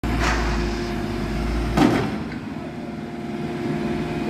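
An engine running steadily, with a loud knock about two seconds in.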